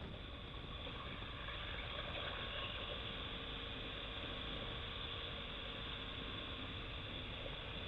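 BMW R1200GS Adventure boxer-twin motorcycle cruising, its engine and the wind blending into a steady, faint drone with a thin constant tone, at an even speed with no revving.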